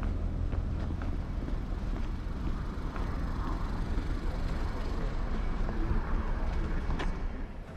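Road vehicles running nearby: a steady low rumble with a few faint clicks.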